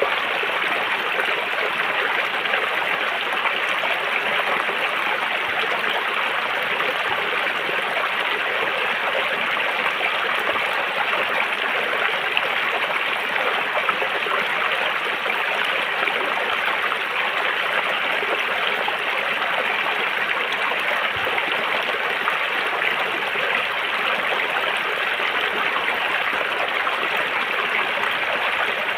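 River water flowing in a steady, unbroken rush over rocks, with a bright splashing texture.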